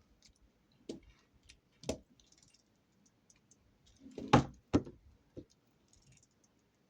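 Plastic clicks and knocks of a LEGO pull-back race car being handled and pulled back on a hard surface: scattered small clicks, with two louder knocks about four and a half seconds in.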